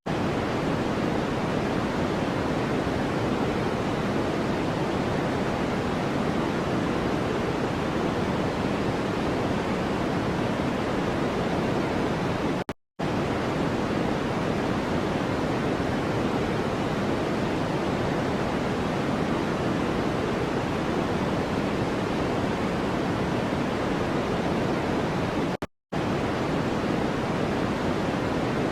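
Steady white-noise track: an even, deep hiss with no pitch or rhythm. It cuts out for a split second twice, about 13 seconds apart.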